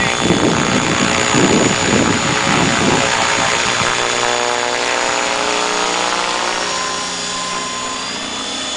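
Radio-controlled model helicopter running in flight, a steady buzzing whine of motor and rotor blades with a strong pulsing beat in the first three seconds that then eases to a smoother, slightly quieter drone.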